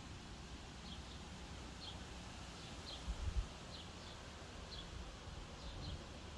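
A bird chirping outside, short high notes repeated irregularly every half second to a second, over a steady low rumble. A brief low bump comes about three seconds in.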